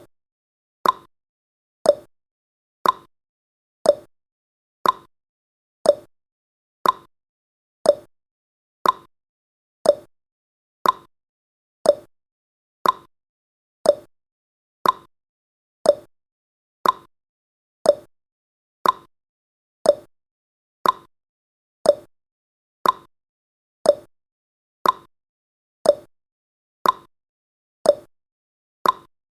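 Countdown timer's clock-tick sound effect: short sharp ticks once a second, alternating between a higher and a lower tick like a tick-tock, with silence between them.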